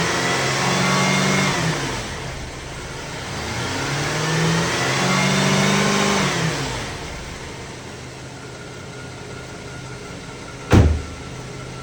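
Chevy Traverse 3.6-litre V6 revved twice, each time climbing and falling back, then settling to a steady idle. A single sharp thump near the end is the loudest moment.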